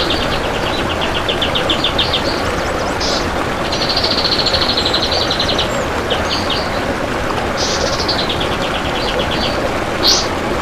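Kapas tembak bulbul singing: long runs of rapid, tightly packed short high notes in fast trills, broken by a few longer single notes, over a steady hiss.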